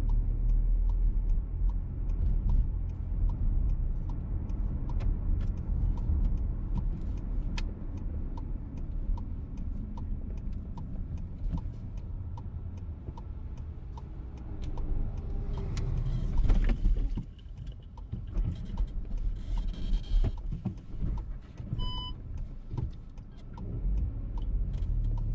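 Inside a VW T-Roc on the move: a steady engine and road rumble, with the turn-signal relay ticking evenly about every half second or so. About three-quarters of the way through there is a short beep.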